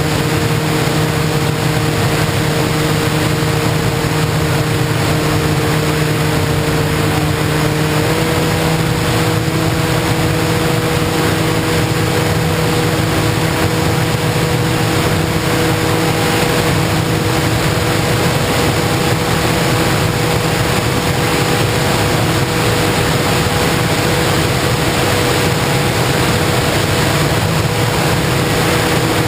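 FPV model plane's motor and propeller running steadily in flight under heavy wind rush; the motor's pitch steps up slightly about eight seconds in as the throttle is raised.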